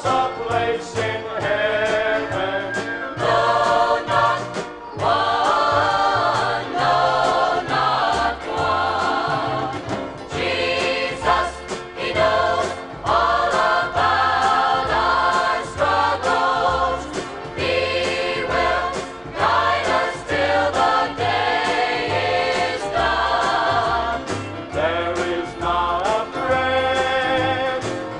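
A choir singing a gospel song with instrumental accompaniment and a steady bass line.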